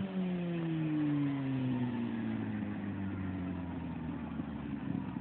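Kawasaki Ninja ZX-6R sport bike's inline-four engine with its pitch falling steadily, as the bike slows or pulls away.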